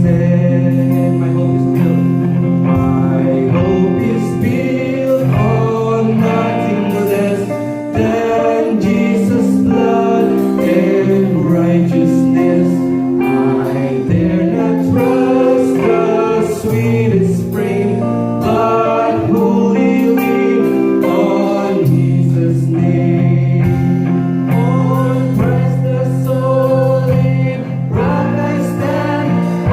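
Live church worship music: a congregation singing a hymn with instrumental accompaniment, sustained chords changing every few seconds.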